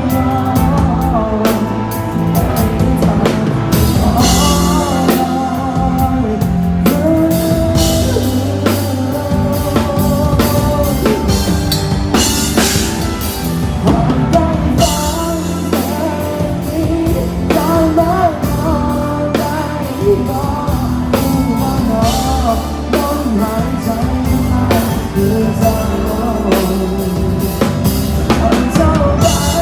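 Live band music: a singer's voice over drum kit, bass and guitar, playing with a steady beat.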